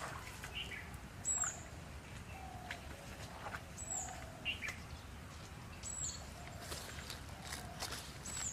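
Birds calling outdoors: a short, very high note repeated about every two seconds, with lower chirps and brief falling notes in between.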